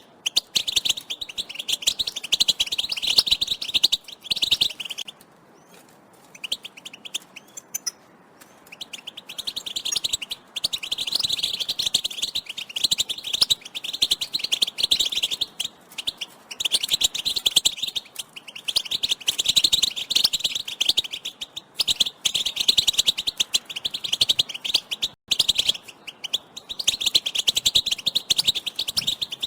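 European goldfinches giving rapid, excited twittering calls, a dense run of quick high chirps. The calls thin out and go quieter between about five and nine seconds in.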